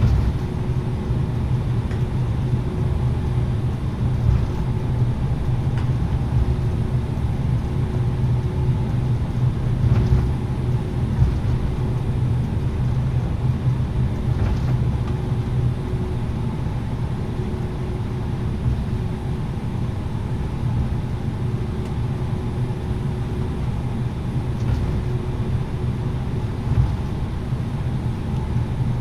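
Steady cabin noise inside an Airbus A330-900neo airliner: a low rumble of its Rolls-Royce Trent 7000 engines and the airflow, with a few faint knocks.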